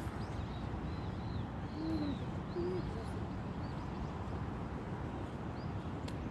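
Steady low rumble of park background noise, with a few faint, short, high bird chirps in the first couple of seconds and two short, low, hoot-like tones about two seconds in.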